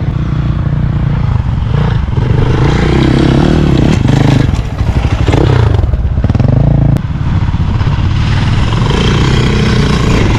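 Dirt bike engines running, revving up and easing off in turns as riders climb a steep, loose hill, with gravel clattering under the tyres.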